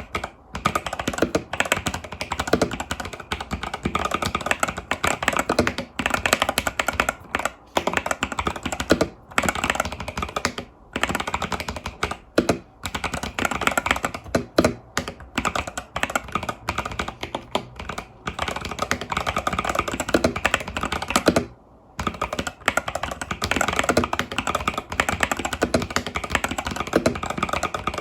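Fast, continuous typing on an Epomaker TH80 Pro mechanical keyboard with Epomaker Budgerigar tactile switches and stock keycaps, with short pauses between bursts, the longest a little past two-thirds of the way through.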